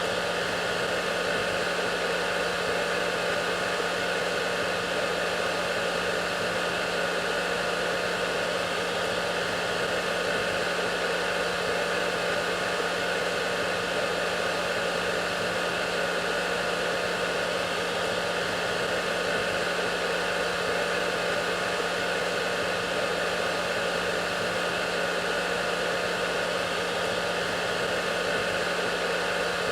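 Hair dryer running steadily: an even rush of air with a constant motor hum.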